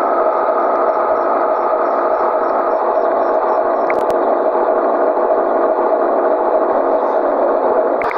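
Scania 113 truck's diesel engine running steadily with a constant drone, with a short click about four seconds in.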